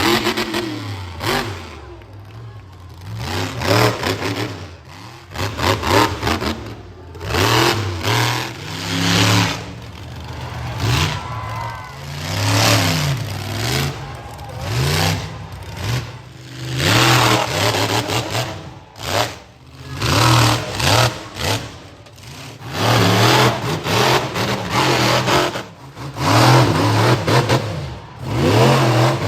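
Monster truck engine revving hard in repeated bursts every two to three seconds, its pitch climbing and dropping with each stab of throttle.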